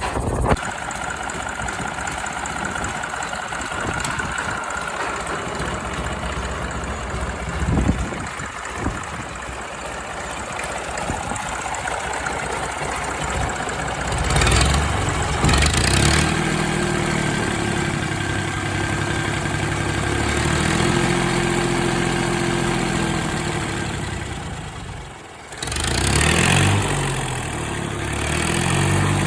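Allis-Chalmers D272's Perkins P3 three-cylinder diesel engine running, revved up and down several times in the second half, with a brief drop about 25 seconds in.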